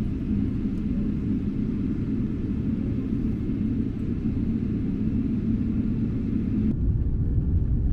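Steady low rumble of an airliner's engines and airflow heard inside the passenger cabin. Near the end the sound changes abruptly, losing its higher hiss while the low rumble goes on.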